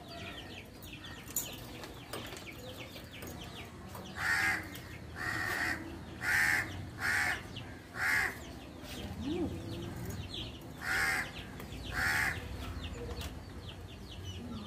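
Loud harsh bird calls repeated seven times, each about half a second long and roughly a second apart, with a pause midway, over faint high chirping of small birds.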